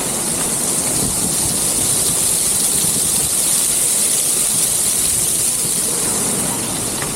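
Steady rush of a waterfall close by, an even hiss with no breaks.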